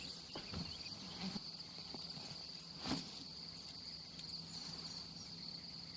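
Crickets chirping steadily in a high, pulsing trill, with a few faint knocks and clicks, the sharpest about three seconds in.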